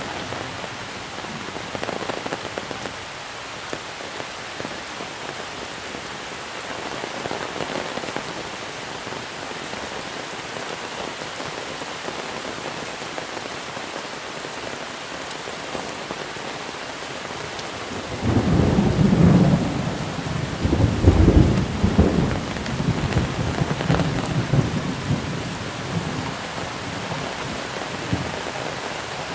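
Steady heavy monsoon rain falling, with a roll of thunder rumbling for several seconds about two-thirds of the way through.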